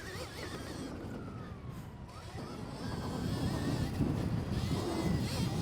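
Stark VARG electric dirt bike's motor whining, its pitch sliding down and then climbing again with the throttle, over a rushing rumble of wind and track noise that grows louder partway through.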